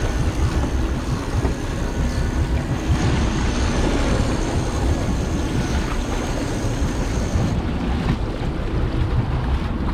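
Wind rushing over the microphone and sea wash on an open fishing boat: a steady, loud noise heaviest in the low end. A faint high whine runs under it and stops about seven and a half seconds in.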